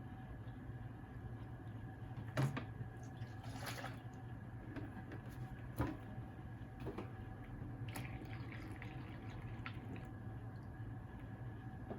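Kitchen sounds of seaweed being cooked for tokoroten: faint liquid sounds over a steady low hum, with a handful of scattered knocks and clinks of utensils or pot, the loudest about two and a half and six seconds in.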